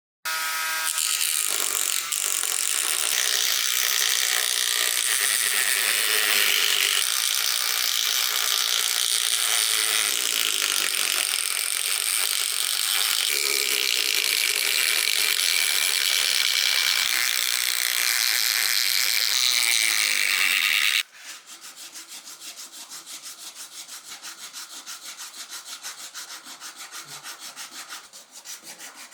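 Loud, steady abrasive grinding of a power tool on a part. It cuts off suddenly about two-thirds of the way in and gives way to quieter, quick, even back-and-forth strokes of hand sanding.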